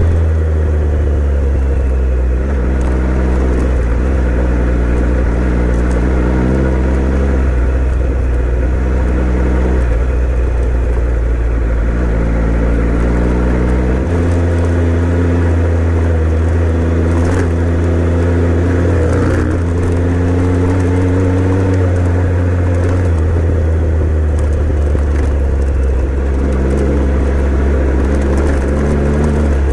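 Motorcycle engine running steadily under way on a dirt trail, its note rising and falling with throttle and gears, with a marked change in pitch about halfway through.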